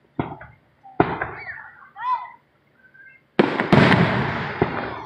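Aerial fireworks shells bursting: two booms in the first second, then the loudest burst about three and a half seconds in, which rolls on with crackling and fades out.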